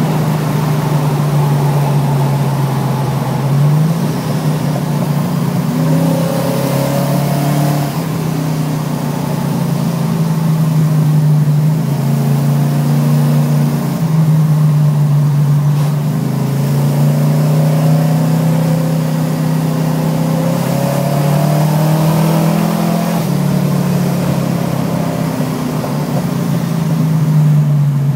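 Holden HT Monaro GTS's small-block Chevrolet 350 V8 running while driving, heard from inside the cabin. Its low note rises and drops in pitch several times over a steady road noise.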